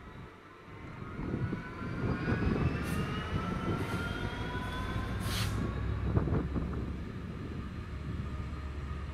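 Class 66 diesel-electric locomotive (EMD two-stroke V12) passing at speed with a container freight train, engine and wheels rumbling, then the container wagons rolling by on the rails. A rising whine builds through the first half.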